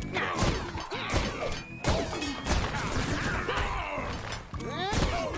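Cartoon action sound effects: a run of sharp hits and crashes, loudest about two seconds in and again near the end, over background music.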